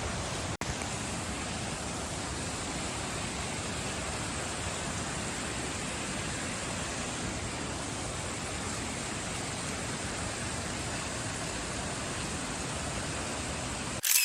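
Steady, even rush of water from a waterfall. It drops out for an instant about half a second in, and near the end a brief louder burst comes just before it cuts off.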